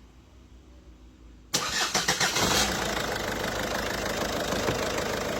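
1.6 HDi 16-valve diesel engine cranking and catching about one and a half seconds in, then settling into a steady idle. The fuel system still holds some air after fresh injector and fuel-line work, as the mechanic notes.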